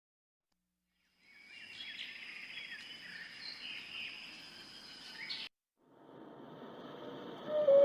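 Faint outdoor ambience with scattered bird chirps and a steady high tone, starting after about a second of silence. It cuts off suddenly a little past halfway, then a different outdoor background fades in.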